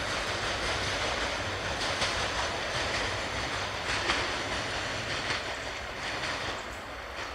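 Metre-gauge passenger coaches rolling away on the rails, the wheels clattering over the track with a few sharp clicks. The sound fades steadily as the train recedes.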